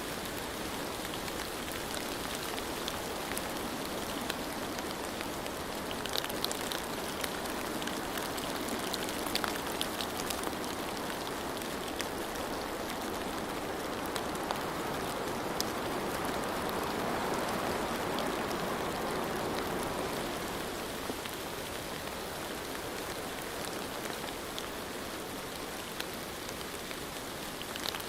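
Steady rainfall, an even hiss of rain with scattered sharp drop ticks. It swells a little about halfway through, then eases back.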